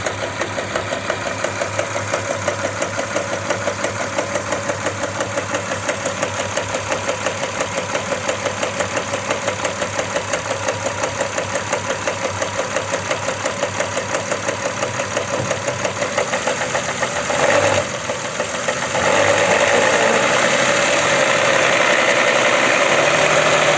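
Audi Q7 3.6 FSI VR6 engine running with a regular knock a few times a second, which the mechanic suspects is a camshaft phaser. The knock is heard during warm-up. About 17 seconds in there is a brief louder burst, and from about 19 seconds the engine runs steadily louder.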